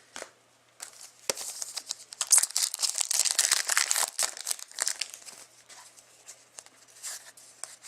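A hockey card pack's wrapper being torn open and crinkled, busiest and loudest for a couple of seconds in the middle, with scattered light ticks before and after.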